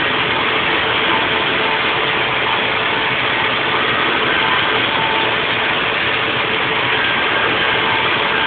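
Haas VF4 CNC vertical mill machining a block: a steady mechanical noise with a few faint steady tones, unchanging throughout.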